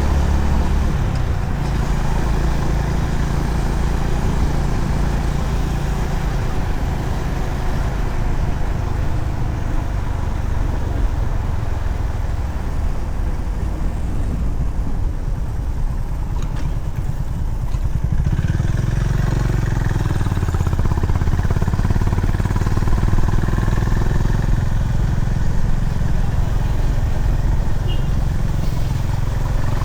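Honda CB350RS's single-cylinder engine running on the move, with wind and road noise over the microphone; about two-thirds of the way through the engine note grows stronger and louder.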